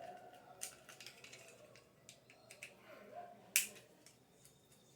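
Scattered small clicks and taps from handling the parts of a Mallory electric fan's motor during disassembly, with one sharp click about three and a half seconds in.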